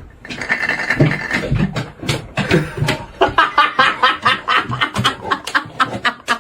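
A person laughing, breaking into rapid repeated bursts of laughter about three seconds in.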